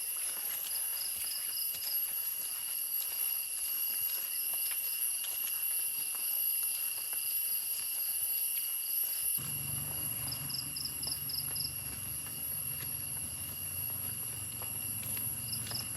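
Forest insects: a steady high shrill drone, with a pulsing chirp repeating about five times a second. A low steady hum comes in a little past halfway.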